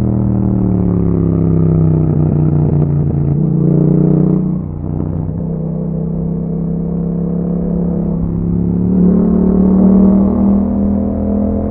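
Yamaha MT-07 parallel-twin engine through an Akrapovic exhaust, riding under way: the engine note dips about four and a half seconds in as the throttle eases, then climbs and grows louder again under throttle near the end.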